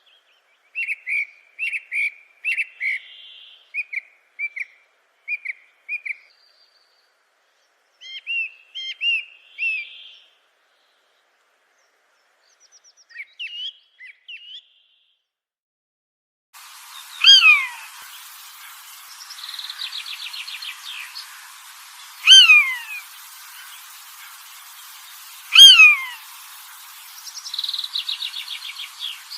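Birds calling. First come short chirping phrases with silent gaps. From about halfway, a faint hiss sets in, over which loud, falling whistled calls repeat every three to four seconds, with a fast trill between them.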